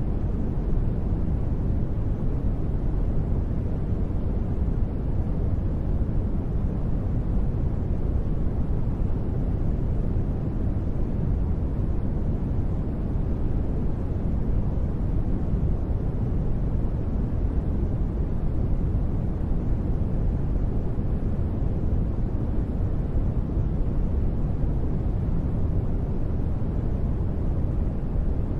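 Continuous sleep noise of the kind sold as white noise, steady and unbroken, with its weight in the deep end: an even low rumble with little hiss on top.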